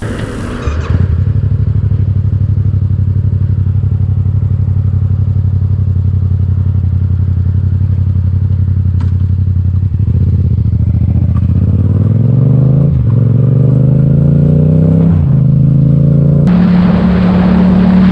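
Motorcycle engine running steadily. From a little past halfway it accelerates, its pitch climbing and dropping back at each of several gear changes.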